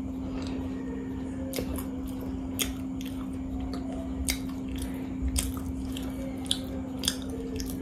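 Close-up chewing of a samosa: irregular wet mouth clicks and smacking sounds while eating, over a steady low hum.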